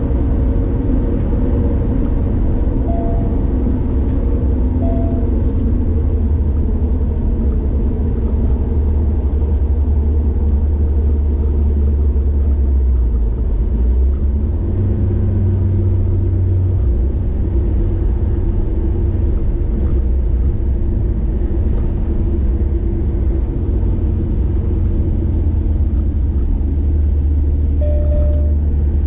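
Steady low rumble of a car driving along a highway, engine and tyre noise running evenly.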